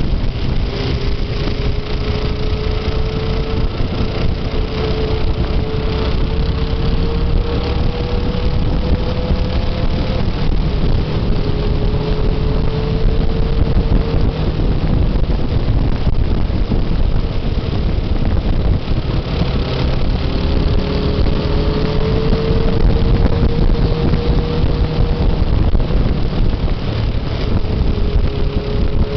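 Motorcycle engine running on a ride, its note climbing slowly and dropping back several times, under a heavy rumble of wind on the microphone.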